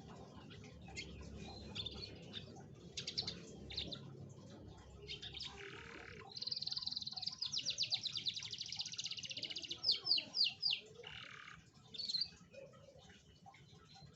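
Domestic canary singing a lure song of the kind played to set other canaries singing. It gives scattered high chirps and short trills, a long fast trill in the middle, then a few quick sweeping notes.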